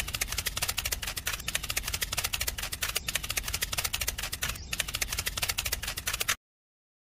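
Small toy tractor's electric motor and plastic gears running as it drives, a rapid, even clicking about ten times a second that cuts off suddenly near the end.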